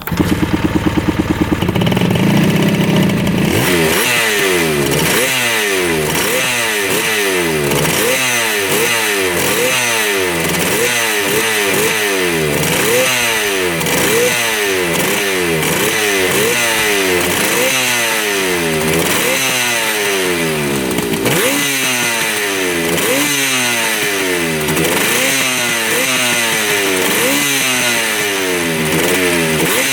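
1975 Yamaha RD200 two-stroke twin firing up on choke for its first start in 20 years. It catches right away, then runs with the revs rising and falling over and over, about once a second, as the throttle is worked. Both cylinders are running.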